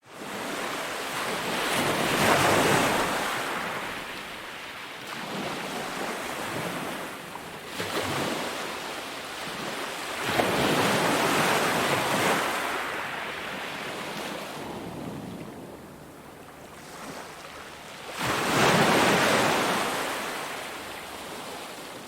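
Ocean surf breaking on a beach, the wash of each wave swelling and fading in slow surges, with the strongest waves about 2 seconds in, around 11 seconds in and near the end.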